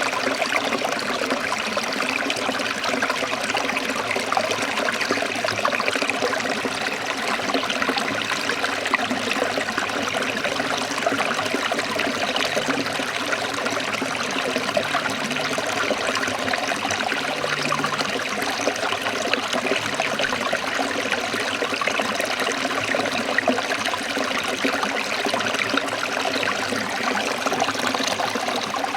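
A stream of water trickling steadily, an even unbroken wash of running water.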